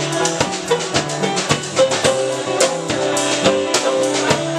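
Live band playing an instrumental passage of a song: a drum kit keeping a busy, steady beat over guitar, with no singing.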